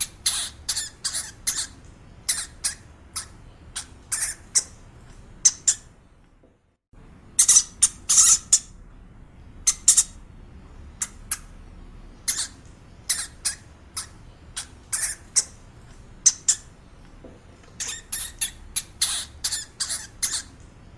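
Short, sharp, high-pitched animal chirps or squeaks coming in quick runs of several a second, broken by a brief silence about six and a half seconds in.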